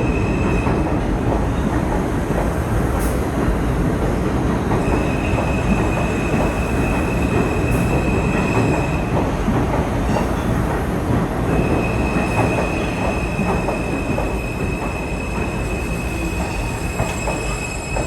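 New York City subway train running with a continuous rumble, and a steady high-pitched wheel squeal that comes and goes three times.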